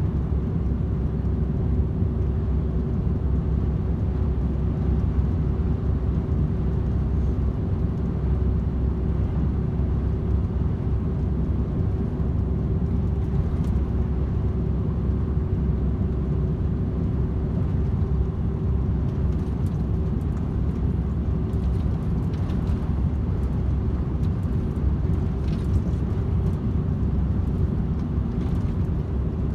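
DAF XF 510 truck cruising on the motorway: a steady diesel drone and road noise, with a constant hum running through it and a few faint ticks in the second half.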